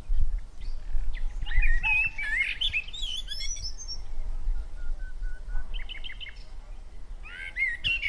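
Small birds chirping in several short bursts of quick, rising and falling high notes over a low, steady rumble.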